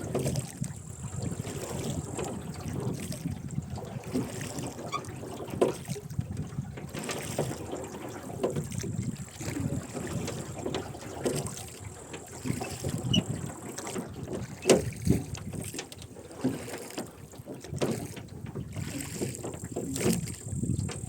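Rowboat being rowed: the oarlocks creak and the oars splash with each stroke, about one stroke every two to three seconds, over a low steady background of moving water and wind.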